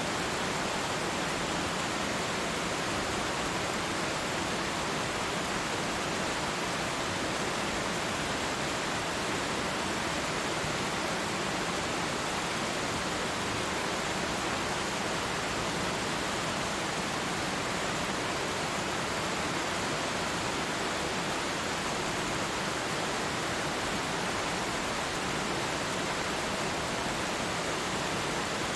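Twin waterfall: a steady, unbroken rush of falling water.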